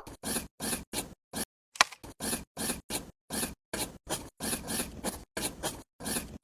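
Repeated short scraping strokes, about three a second, each a brief rasp.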